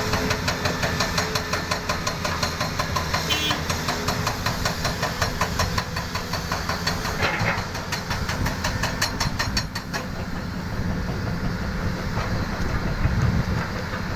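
An engine running steadily, with a fast, regular clatter of about six or seven beats a second that fades about ten seconds in.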